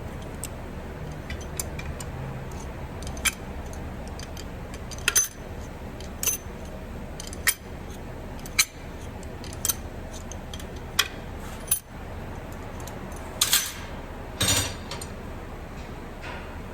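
Light metallic clicks and clinks of pushrods and rocker arms being set into a Chevrolet 5.3 L V8's cylinder head, about one every second, a little louder near the end, over a steady low hum.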